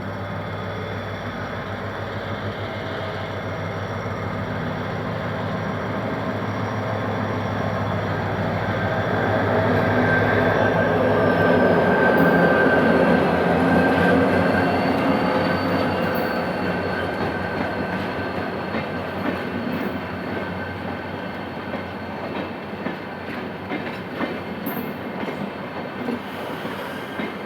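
GM GT22CW-2 diesel-electric locomotive pulling a passenger train away, its engine running with a steady low hum that grows loudest about twelve seconds in and then fades. Train wheels click over the rail joints as the coaches roll past.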